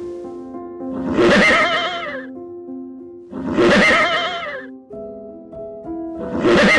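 An animal's whinnying call, three times about two and a half seconds apart, over soft piano music.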